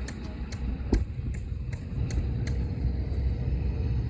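An engine running with a low, steady rumble and a sharp ticking roughly two to three times a second, with one heavier thump about a second in.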